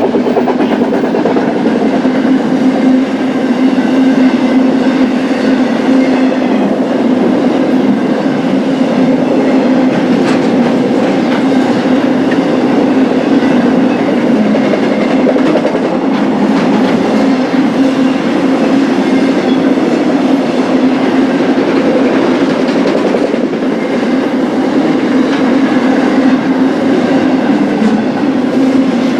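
Cars of a BNSF intermodal freight train rolling past, a steady loud noise of steel wheels on rail with a constant low tone.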